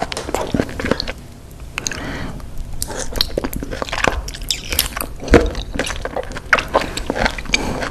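Close-miked wet chewing and slurping of raw octopus tentacles, with sticky, squelching mouth sounds and many small clicks. There is one sharp, louder smack about five seconds in.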